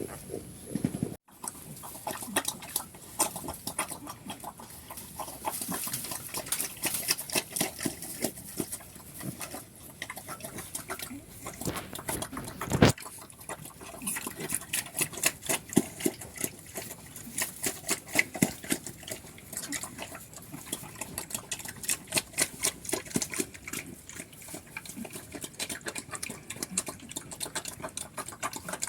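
Black pigs making a fast, uneven stream of sharp clicks and short noises, with one louder knock about thirteen seconds in.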